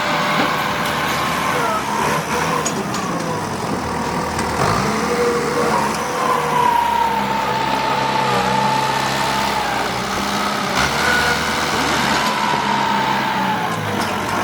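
Engine of a heavy work vehicle running under load, revving up about four and a half seconds in and holding there, with a high, slightly wavering whine over it.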